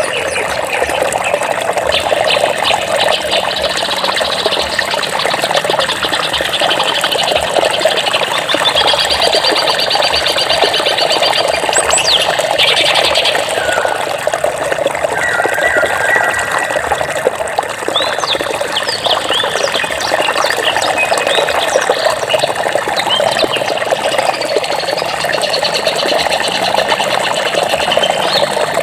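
Flowing water running steadily, with several birds chirping and trilling over it: rapid trills around ten seconds in and near the end, and quick whistled sweeps at about twelve seconds and between eighteen and twenty.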